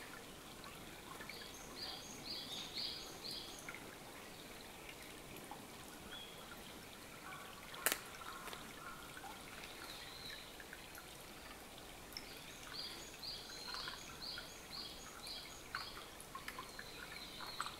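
Faint outdoor ambience: a bird sings a short high note repeated about six times, twice, over a soft steady trickle of water. A single sharp click sounds about eight seconds in.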